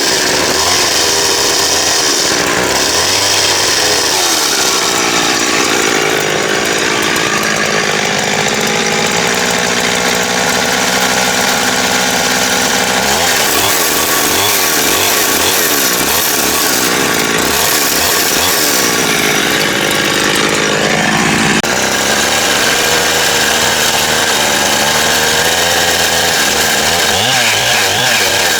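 Power saw cutting timber: a steady, loud motor sound whose pitch rises and falls several times as the saw works through the wood.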